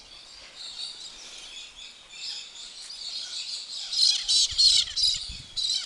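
Small birds chirping and twittering: faint at first, then a quick run of high chirps that is loudest from about four seconds in.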